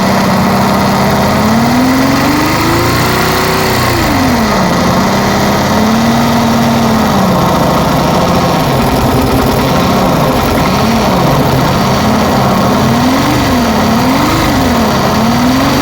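Yamaha FZ V3 motorcycle's single-cylinder engine being revved: one slow rise and fall in pitch, a smaller rev, then several quick throttle blips. It carries an abnormal noise from inside the engine, which the mechanic calls a dangerous sound and a big problem.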